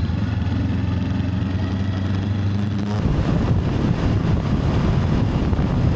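Motorbike engine running with a steady hum. About three seconds in, the sound changes abruptly to a rougher, noisier rumble.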